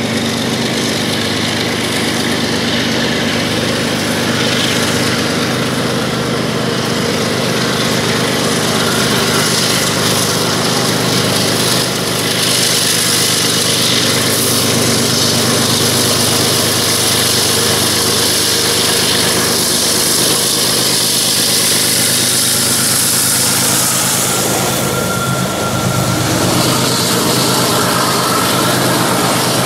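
Freight train's diesel locomotives running steadily as they approach and pass beneath, with a constant low engine note. From about halfway through, the rushing hiss of autorack cars rolling past on the rails grows louder.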